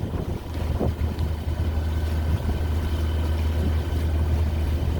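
Sailboat's inboard engine running steadily under the deck, a constant low hum with faint steady whine tones above it.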